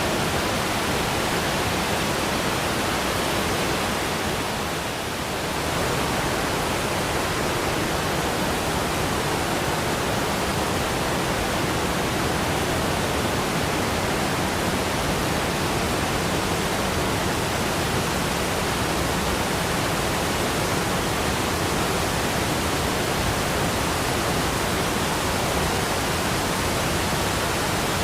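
Waterfall water rushing as a steady, even noise, with a slight dip in level about five seconds in.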